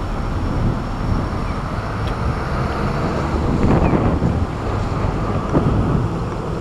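Strong gusting wind of a typhoon buffeting the microphone: a dense, low rushing noise that swells in gusts, strongest a little past the middle.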